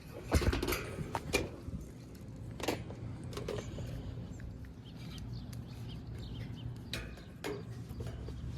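Scattered sharp metal clicks and knocks of hand tools and parts being handled during a fan motor replacement, the loudest just after the start, over a steady low hum.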